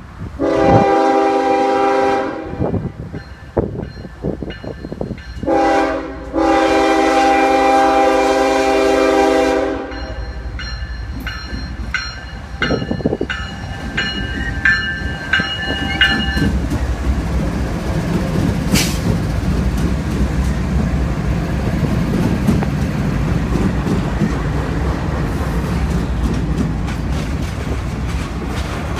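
Norfolk Southern freight train's locomotive air horn blowing for a grade crossing: a multi-note chord in a long blast, then a short one and a long blast of about four seconds. A bell rings briefly as the diesel locomotives rumble past. Then loaded crude-oil tank cars roll by, their wheels clicking over the rail joints.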